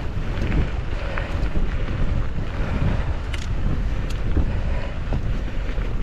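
Strong wind buffeting the camera microphone, a steady low rumble while cycling into a headwind, with a few faint clicks.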